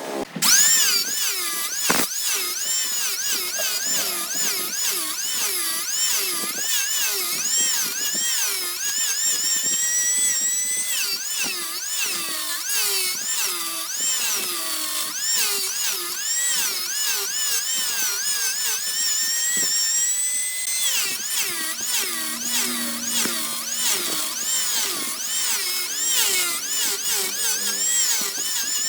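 Power tool whining, its pitch dipping and rising over and over about twice a second as it is loaded and eased off the wood. There is a sharp click about two seconds in.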